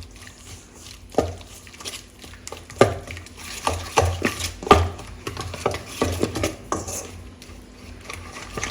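A spoon stirring a thick flour-and-spice batter in a bowl, clinking and knocking against the bowl's side at irregular intervals as water is worked into the dry mix.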